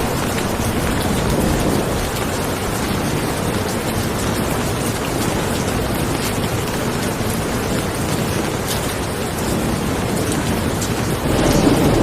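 Steady heavy rainfall, with a low rumble of thunder swelling near the end.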